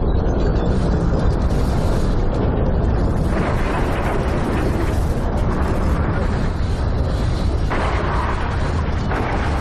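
A loud, continuous deep rumbling roar, with two surges of harsher noise, about three and eight seconds in.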